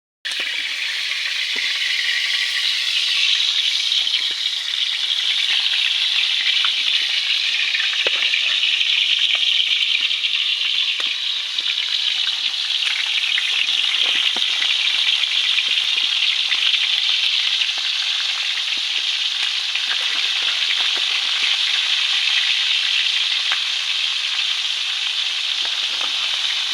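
Food frying in hot oil: a steady sizzle with small scattered crackles.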